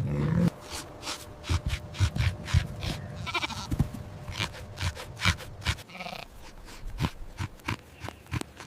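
Sheep bleating a few times, with many short clicks and knocks between the calls.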